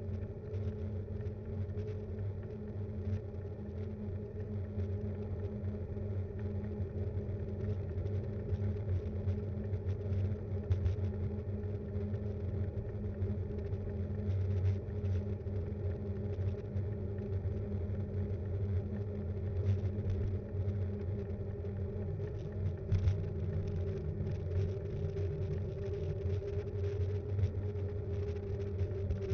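Steady rumble of a Btwin Rockrider 5.1 mountain bike rolling along the road, picked up as vibration by an action cam mounted on the bike, with scattered small clicks and rattles from bumps.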